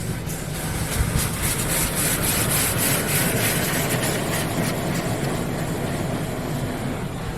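Hydro Spray Classic in-bay automatic car wash running over the car, heard from inside the cabin: a steady rushing hiss over a low machine hum. It swells about a second in and eases near the end.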